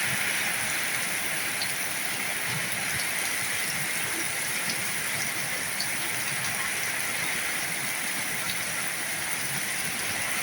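Heavy rain falling steadily, a dense even hiss with occasional separate drop ticks.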